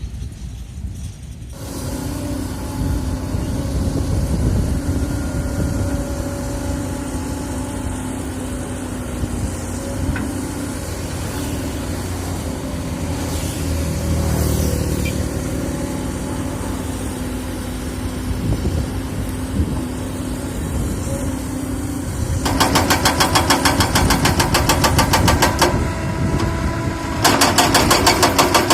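Excavator diesel engine running steadily, starting up about a second and a half in. Near the end come two spells of rapid rattling pulses, about seven a second, each lasting a few seconds.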